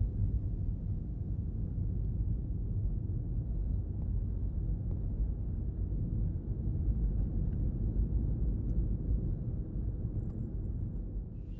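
Steady low rumble of a car driving, heard from inside the cabin as road and tyre noise.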